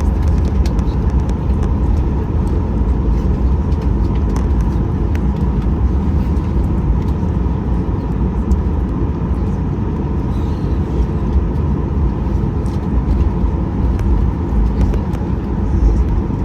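Steady cabin noise inside a Boeing 737-800 from a seat over the engine: a dense, even rumble of engine and airflow with a faint steady hum above it and a few light ticks.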